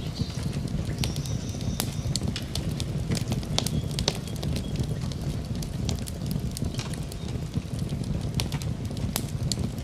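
Wood fire burning: irregular sharp crackles and pops over a steady low rumble of flames, with a faint high whistle in the first couple of seconds.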